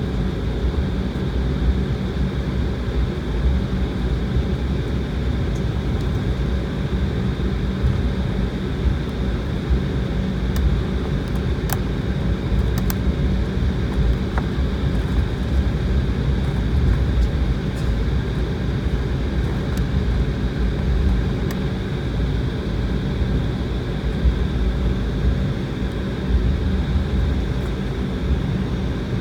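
Steady jet engine noise and low rumble heard inside the cabin of an Embraer regional jet airliner during takeoff and climb, with a few steady whining tones over the roar.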